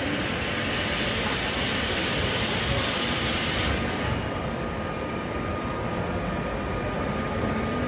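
ÖBB Nightjet passenger train rolling slowly into the platform, with a loud hiss of air that cuts off sharply about four seconds in, leaving the rumble of the coaches running on.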